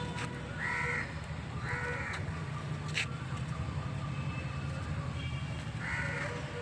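Domestic goose giving three short, harsh honks: two close together near the start and one near the end, over a steady low hum.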